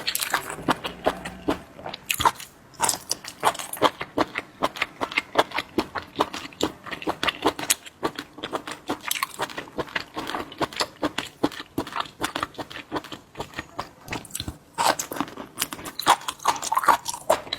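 Close-up chewing of crisp raw shellfish meat: a steady run of quick, irregular wet crunches and mouth clicks.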